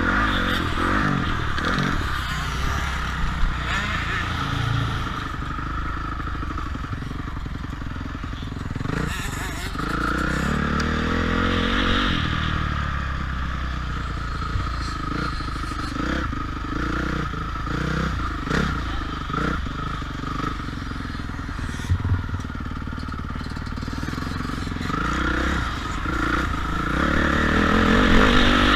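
Motocross dirt bike engine running hard on a track, revving up and dropping back again and again through the ride, with knocks and clatter from the bike over the ground.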